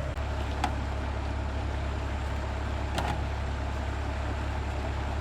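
Steady low engine hum with two sharp clicks, about half a second in and about three seconds in.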